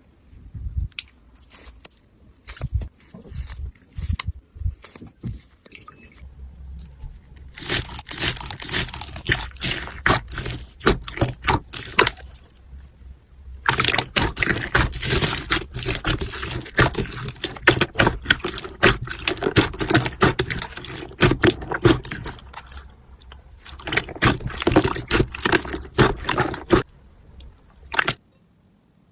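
Slime being squeezed and pressed by hand: sparse sticky clicks at first, then long runs of dense crackling and popping, broken by short pauses, that stop abruptly near the end.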